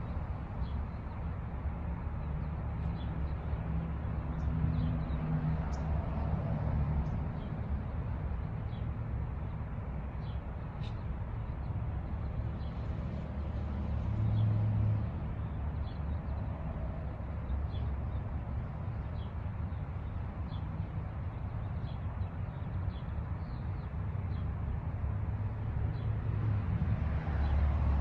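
Outdoor ambience: a steady low rumble with faint, short high chirps scattered throughout.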